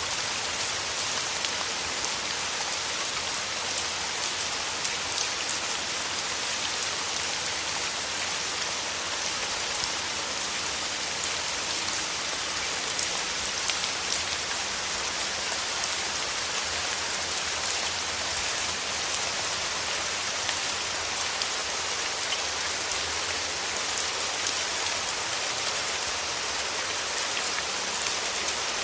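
Steady rain tapping softly against a windowpane: a dense, even hiss of drops with faint individual ticks.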